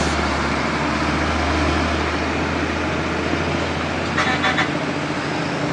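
Roadside traffic with a heavy diesel vehicle: a steady low engine rumble over road noise that fades after about three and a half seconds. A brief cluster of short, higher-pitched toots comes a little after four seconds.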